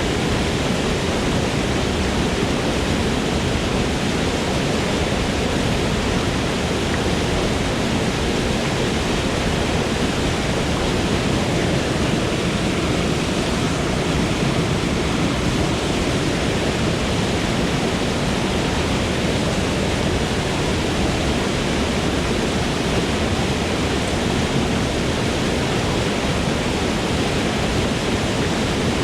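Forest waterfall, its water falling and splashing in a steady, unbroken rush.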